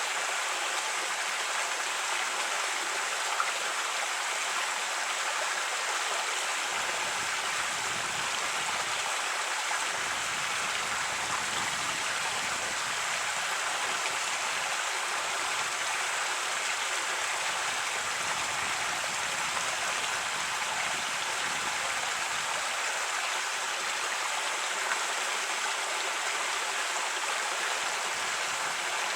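A creek running steadily over rocks, an even rush of water.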